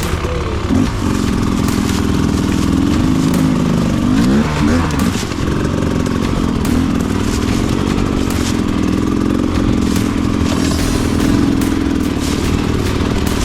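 Dirt bike engine running on a trail, its pitch rising and falling with the throttle, most sharply about four seconds in, with scattered knocks and clatter from the bike over rough ground.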